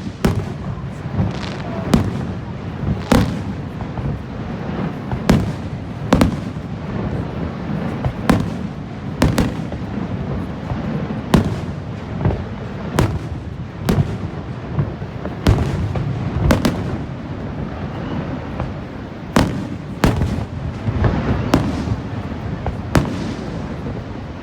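Fireworks display: aerial shells bursting with sharp bangs about once a second, over a continuous low rumble.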